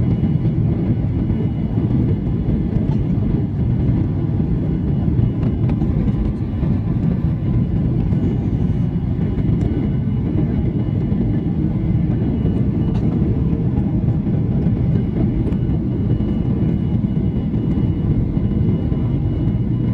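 Steady low rumble of a Boeing 737-800's cabin in flight, engine and airflow noise with a few faint steady tones above it.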